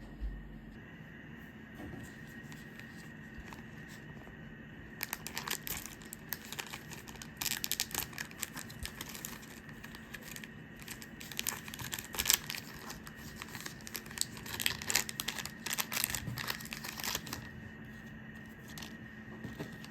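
Crinkling and rustling in irregular bursts of crackles, starting about five seconds in and stopping a few seconds before the end, over a steady faint hum.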